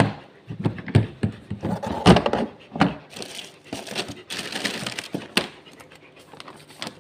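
Plastic treat packet crinkling and rustling as it is handled, with scattered sharp clicks, while a treat is taken out for the dog.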